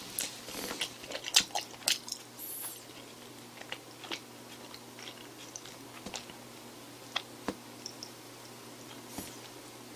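Close-miked chewing of a mouthful of rice: a quick run of sharp, wet mouth clicks and smacks in the first two seconds, then slower chewing with a few scattered clicks.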